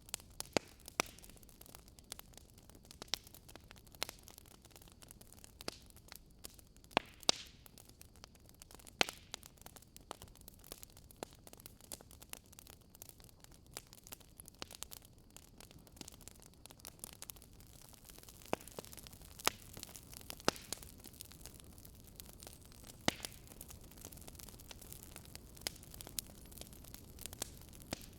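Wood campfire crackling: irregular sharp pops and snaps, a few louder than the rest, over a soft steady hiss of burning that grows a little louder about two-thirds of the way through.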